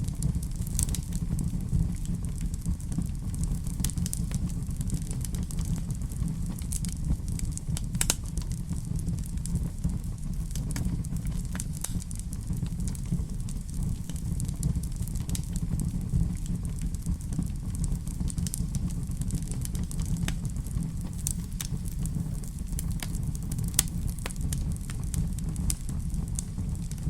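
Wood fire crackling in a fireplace: irregular sharp pops and snaps over a steady low rumble, with one louder pop about eight seconds in.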